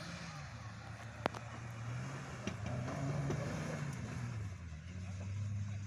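A vehicle's motor running steadily, its low hum drifting up and down in pitch, with a few sharp clicks over it.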